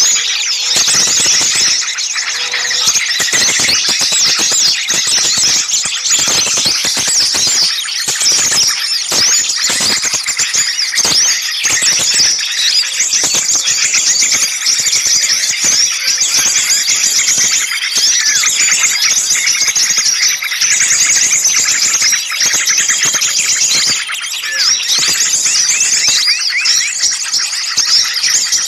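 A dense, continuous chorus of many small songbirds chattering noisily, fast high chirps and short trills overlapping without a break: agitated, alarm-like calling of the kind played as a bird lure to draw small birds in.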